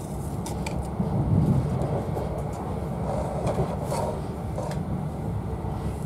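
InterCity 125 (Class 43 HST) train in motion: a steady low rumble of wheels on track, with scattered clicks and knocks from the rails and a brief louder swell about a second in.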